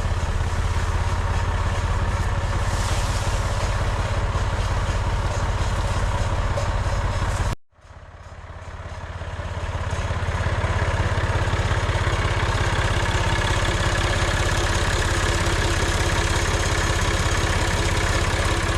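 An engine running steadily at an even idle. It drops out for a moment about eight seconds in, then fades back up.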